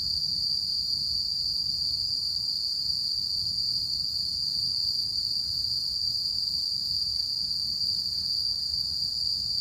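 Autumn night insects singing in chorus: a steady, unbroken high trill with fainter higher voices over it, and a faint low rumble underneath.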